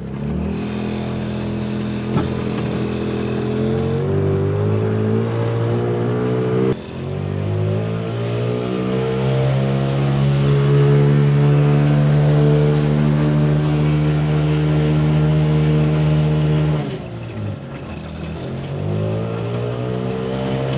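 Car engine being driven hard through the gears. The revs climb, drop at a gear change about seven seconds in, climb again and hold high for several seconds, then fall off near the end and start rising again.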